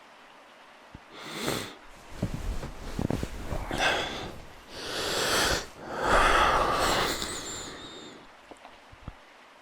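A person breathing close to the microphone: a few loud, noisy breaths in the first eight seconds, over faint steady background hiss.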